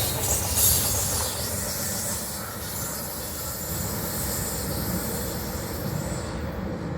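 Cars of a Norfolk Southern intermodal freight train rolling past at speed: steady wheel-on-rail rumble with a high hiss of steel wheels on the rails. The hiss weakens after the first second or two and drops away near the end as the train moves off.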